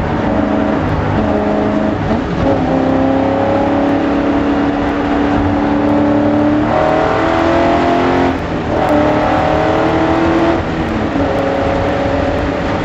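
BMW S62 V8 race engine heard from inside the car at speed, climbing in pitch under acceleration with short dips at gear changes about 2 and 8 seconds in. It drops back around 10 seconds in and then runs at a steady pitch.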